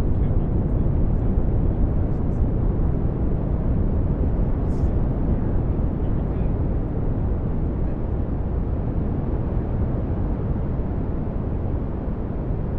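Synthesized brown noise: a steady, deep rushing hiss, heaviest in the bass, easing slightly in level toward the end. A few faint short ticks sit on top, one of them about five seconds in.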